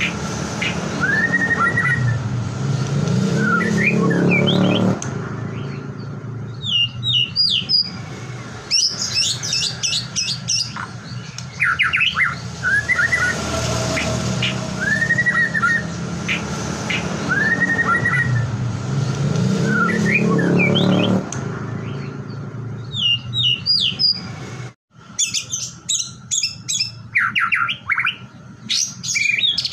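White-rumped shama (murai batu) song used as a lure: slurred whistles curving up and down, then rapid high chattering and trilled phrases. The same sequence plays through twice, as in a looped recording.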